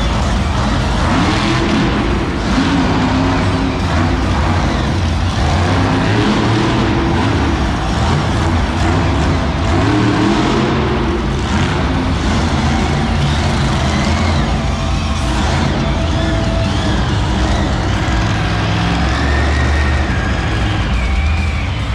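Monster truck engine running loud, revving up and down through a short run in the arena.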